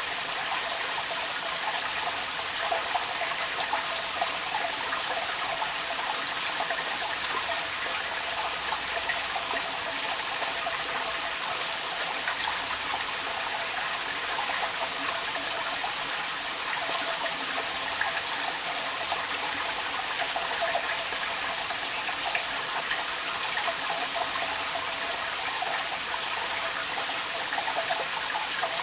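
Rainwater running and splashing out of a downpipe, a steady trickling gush, with rain pattering around it.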